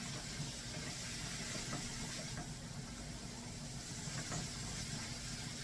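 Chicken pieces frying in butter in a skillet: a steady sizzle with faint scattered crackles, over a low steady hum.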